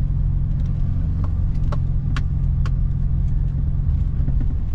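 Car engine running steadily at low speed as the car drives over a sandy track, heard from inside the cabin, with a few sharp clicks about one to three seconds in.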